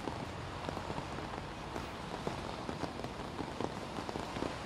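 Heavy rain pouring down: a steady hiss dotted with the small ticks of drops striking hard surfaces.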